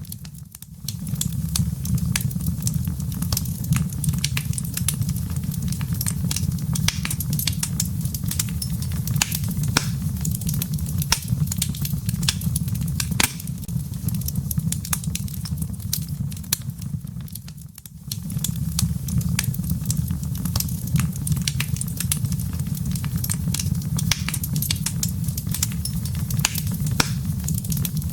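Wood fire burning in a fireplace: a steady low rumble of flames with frequent sharp crackles and pops of burning firewood. The sound dips briefly twice, near the start and again about two-thirds of the way through.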